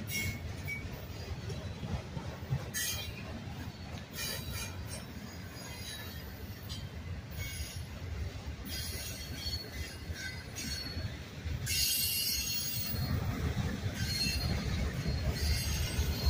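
Autorack freight cars rolling slowly past on jointed track with a steady low rumble of wheels on rail. Short high-pitched metallic wheel squeals and screeches come and go, and the rumble grows louder about twelve seconds in.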